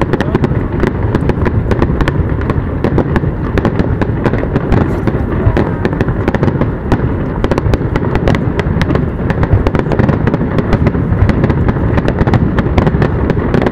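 Aerial fireworks display: shells bursting in a dense, rapid run of sharp bangs that overlap one another.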